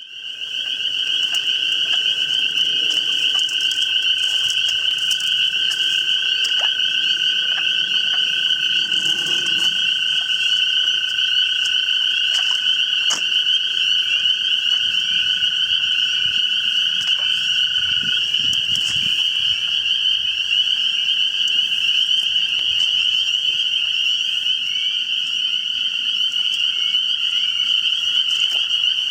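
Dense chorus of spring peepers calling at night, countless short rising peeps overlapping into one constant shrill din. A steady, lower-pitched trill runs beneath it and fades about two-thirds of the way through.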